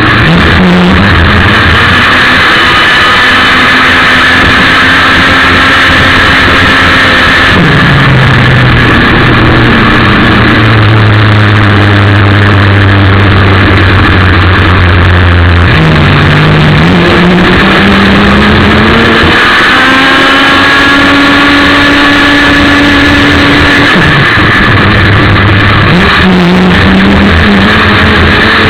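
ASP 61 two-stroke glow (nitro) engine of a radio-controlled racing boat running at high revs, very loud and close. Its pitch drops about a third of the way through, climbs again, and dips and climbs a few more times toward the end as the throttle is eased and opened.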